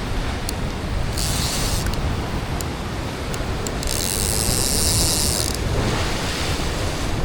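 Fishing reel drag buzzing as a hooked tuna takes line while diving deep: a short run about a second in and a longer one of about a second and a half mid-way. A steady rush of surf and wind runs underneath.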